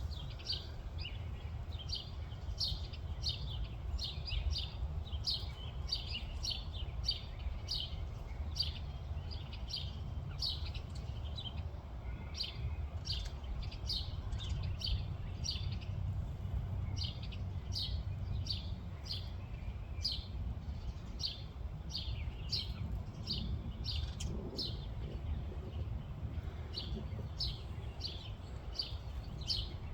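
A bird chirping over and over in short, high, quick notes, about one to two a second, over a steady low rumble.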